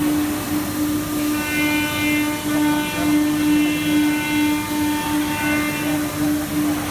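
CNC router with automatic tool changer running, its spindle giving a steady whine with a set of higher tones that come and go over a background of machine noise.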